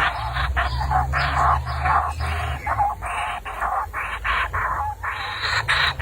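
A baby bird's harsh, hissy begging calls, repeated about twice a second, over a low steady hum.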